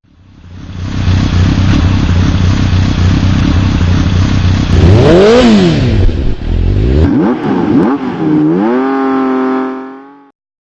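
Sport motorcycle engine running hard. Its pitch swings up and down with the throttle about halfway through and again a couple of seconds later, then climbs and holds a steady high note before fading out.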